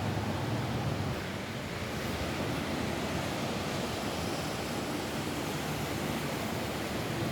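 Steady rain falling on a roof, a constant even rushing hiss.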